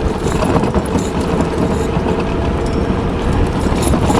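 Steady engine and road noise from passing vehicles: a continuous dense drone with a faint steady hum underneath.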